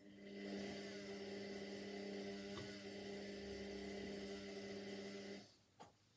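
Indesit 71252 washing machine switching on a steady electric hum with a hiss over it, which cuts off suddenly after about five and a half seconds, followed by a single click.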